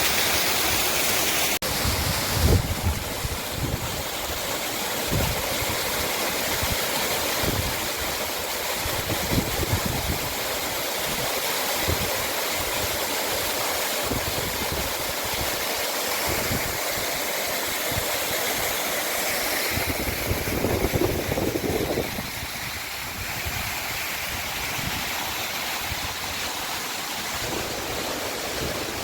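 Rushing water from a waterfall or stream: a steady, even roar, with irregular low gusts of wind buffeting the microphone.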